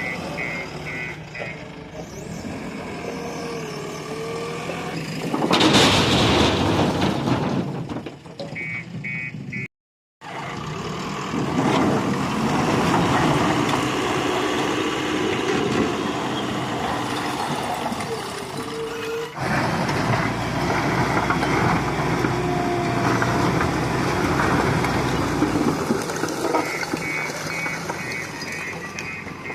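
Heavy vehicle engines running, with an electronic reversing alarm beeping in short evenly spaced bursts at the start and again near the end. There is a loud hiss about six seconds in, and the sound drops out briefly about ten seconds in.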